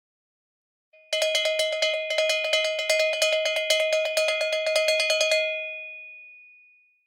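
A cowbell rung rapidly, about seven clanks a second for some four seconds, then left to ring out and fade away.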